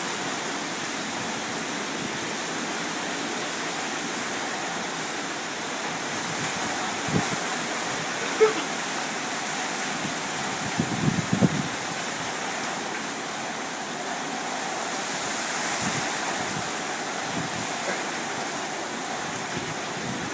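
Hurricane rain and wind: a steady, heavy hiss, with a few brief low bumps near the middle.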